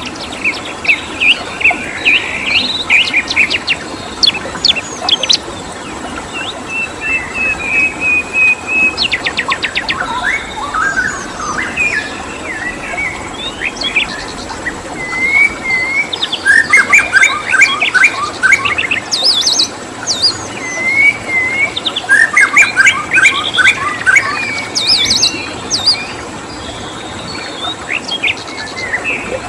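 Songbirds singing: a busy mix of chirps, short whistled phrases and fast trilled runs of notes, over a steady background hiss.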